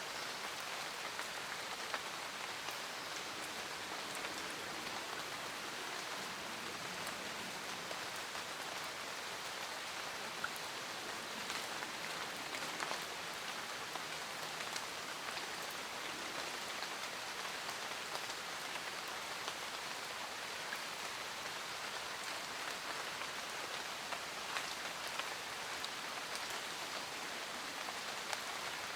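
Steady rain falling, an even hiss with scattered individual drop taps throughout.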